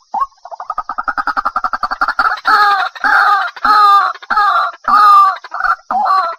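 White-breasted waterhen calling: a fast run of short notes begins about half a second in and builds into loud, repeated croaking calls, roughly one every half second.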